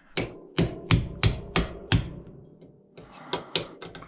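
Hammer striking a cold chisel: six sharp metal-on-metal blows about three a second, each with a brief ring, then a few lighter taps near the end.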